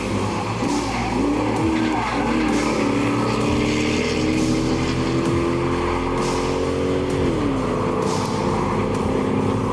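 Mercedes SL500 R129's M119 V8 driven hard on track. The engine note wavers up and down through the first couple of seconds, then climbs steadily for about three seconds before the revs drop about seven seconds in.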